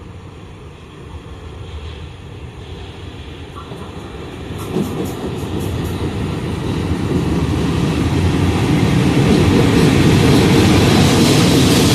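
A Škoda locomotive hauling a train of tank wagons approaching and passing close by, its wheel and rail rumble growing steadily louder. A few sharp clicks come from the wheels about halfway through, and the wagons pass close by near the end.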